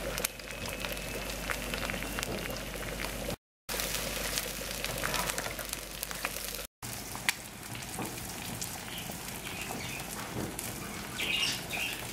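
Eggs sizzling and crackling as they fry in a pan, in two short clips, then a pot boiling. Brief silences fall between the clips.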